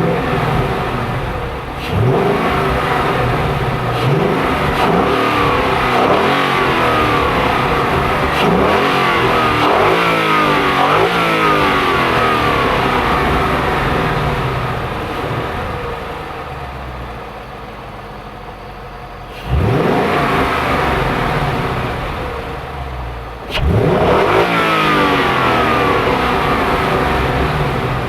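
Ford Mustang GT's 5.0-litre V8 engine and exhaust revving: a run of quick rev blips that climb and fall back, a lower, quieter stretch about halfway through, then two sharp, loud pulls that each hold high for a few seconds.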